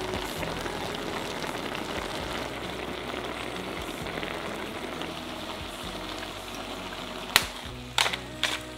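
Zucchini and onion frying in a pan: a steady sizzle with a little simmering liquid. A few sharp clicks come near the end.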